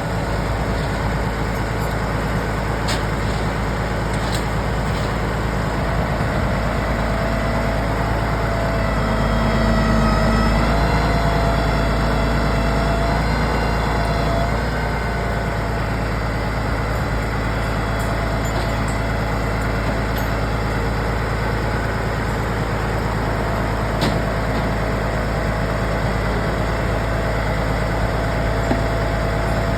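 A heavy vehicle's engine runs steadily, with a low rumble and a faint whine, swelling a little about ten seconds in.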